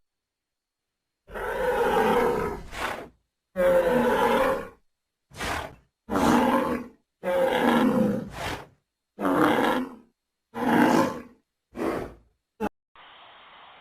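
A large animal roaring over and over: about ten rough, loud roars of around a second each, separated by short silent gaps, the last few shorter and briefer.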